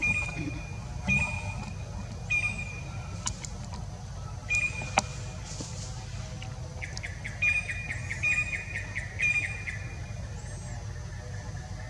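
A bird calling in short, high, clear notes about once a second, breaking into a quick rapid series of notes for a couple of seconds in the second half, over a steady low background rumble. A single sharp click about five seconds in.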